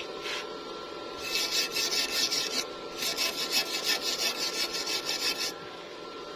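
Rapid back-and-forth scraping of a hand tool on metal, like filing or wire-brushing, in two runs: about a second and a half starting a second in, then about two and a half seconds after a short pause.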